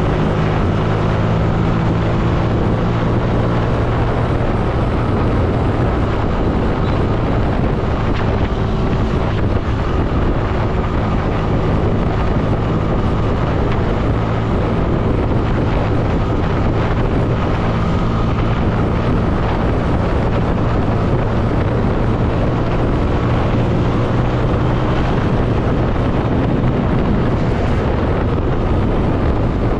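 Motorcycle engine running at a steady cruising speed while riding, with wind buffeting the microphone.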